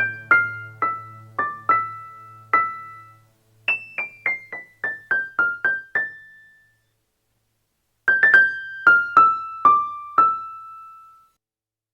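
Instrumental keyboard break with an electric-piano sound: short phrases of single high notes, each struck and quickly dying away, the middle phrase a quick descending run. A low held note fades out in the first few seconds, and the phrases are split by brief silent pauses.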